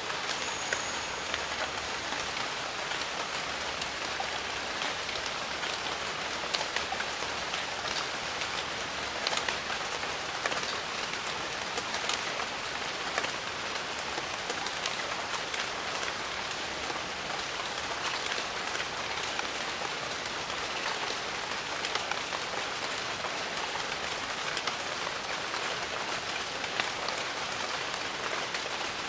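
Steady rain falling, a dense even hiss with scattered individual drop patters.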